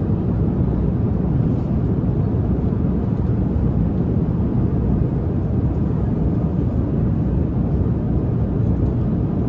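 Steady cabin drone of an airliner in flight: a low, even rumble of engines and rushing air that holds the same level throughout.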